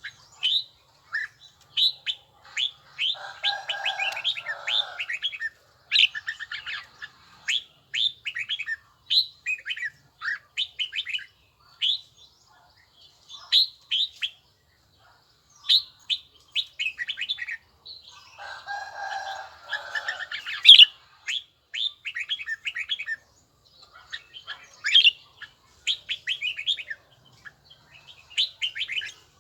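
Red-whiskered bulbul song: quick runs of short, clear chirping notes and phrases in rapid succession, with brief gaps. Twice a lower, rougher sound joins in for about two seconds.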